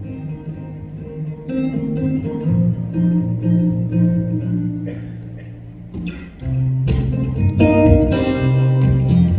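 Live band playing an instrumental break between verses, led by guitar over bass, swelling louder about six and a half seconds in.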